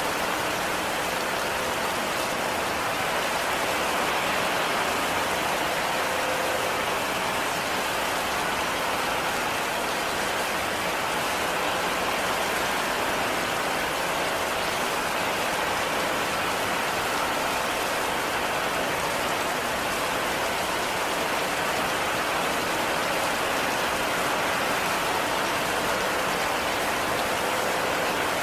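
Steady heavy rain falling, an even dense hiss of drops without letup.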